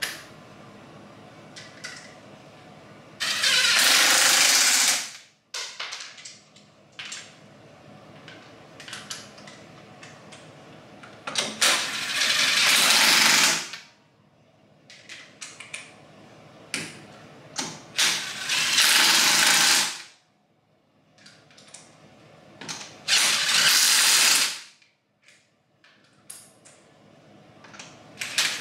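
Aerosol spray can spraying in four hissing passes of about two seconds each, with small clicks and knocks between passes, as a wheel rim is coated.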